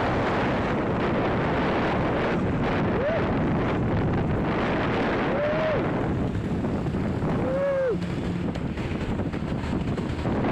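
Loud steady wind and road noise of a moving vehicle, with a few short rising-and-falling tones over it. The noise eases slightly about eight seconds in.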